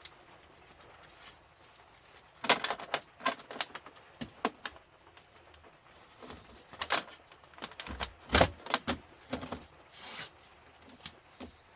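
Hand tools and copper and aluminium scrap clinking and clattering: irregular sharp clicks and knocks, starting about two and a half seconds in, as a humidifier radiator is stripped for its copper piping.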